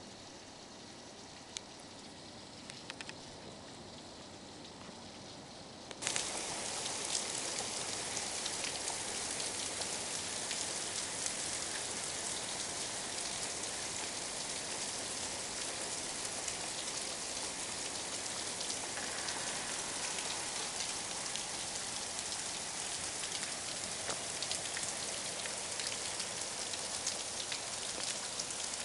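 Heavy rain falling, a steady dense hiss of many drops. About six seconds in it becomes abruptly louder and fuller, then holds steady.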